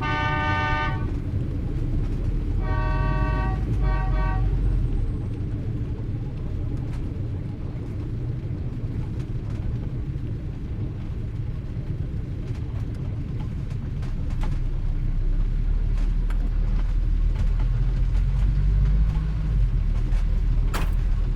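Street traffic rumbling steadily, with car horns honking near the start: one toot of about a second, then two short toots about three seconds in.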